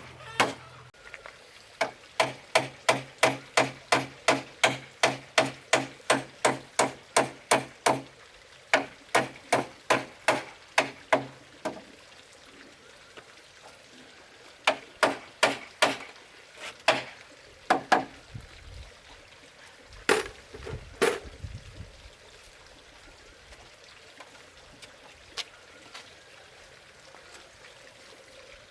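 A tool striking wood in quick, evenly spaced blows, about three a second, in several runs with short pauses, then a few heavier, duller blows before it stops.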